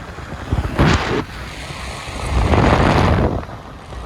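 Toyota Echo driving, with wind rushing over the microphone in loud gusts that swell and fade.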